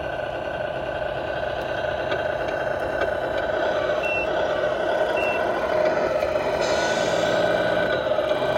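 A machine or engine running steadily, with two brief high beeps about four and five seconds in.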